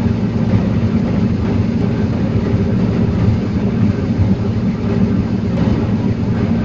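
Heavy diesel engine of a forestry log-loading machine running steadily at an even speed.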